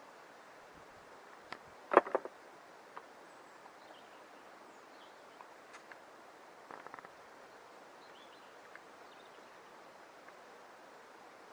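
A quiet outdoor background with one sharp knock about two seconds in, followed by a few softer clicks and taps.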